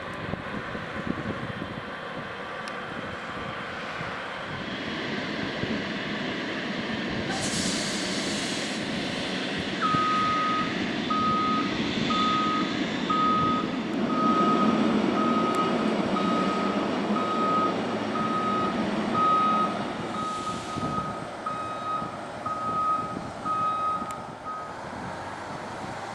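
A ground-service vehicle reversing, its backup alarm beeping about fifteen times at roughly one beep a second over its running engine, starting about ten seconds in. There is a short hiss before the beeping starts and another near the end.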